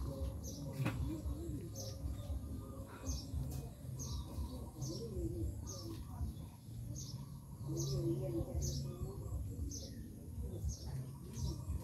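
A small bird chirping over and over at a steady pace, with short high notes coming about once or twice a second over a low background rumble.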